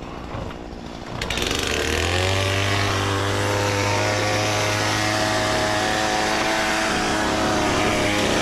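Chainsaw starting up about a second in, its pitch rising quickly before it runs steadily at high speed.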